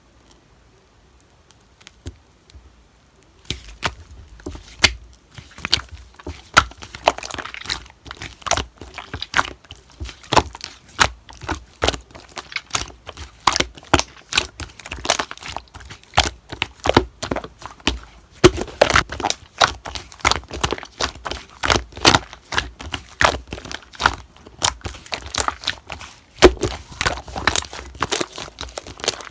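Slime being squished and stretched by hand, giving a dense, irregular run of crackling pops and clicks that starts about three seconds in.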